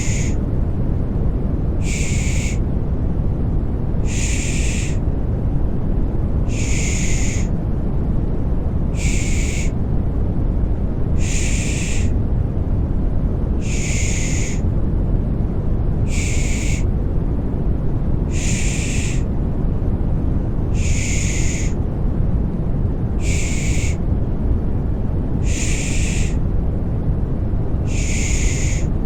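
Rhythmic 'pış pış' baby-soothing shushing: a hissing 'shh' about every two and a half seconds, some longer and some shorter, over steady, deep, rumbling white noise.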